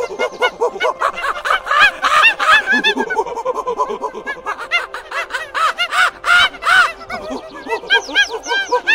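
Monkeys chattering: a rapid stream of short, high-pitched calls from several animals, overlapping.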